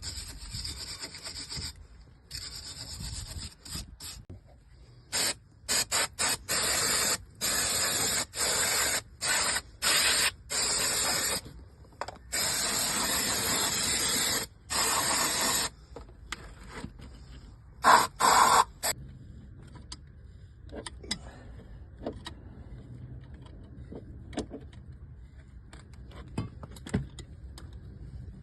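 Aerosol can of brake cleaner sprayed in repeated bursts onto the brake hub and caliper parts. Each burst is a steady hiss that starts and stops abruptly, the longest about three seconds. It thins out in the second half to a few short squirts and light knocks.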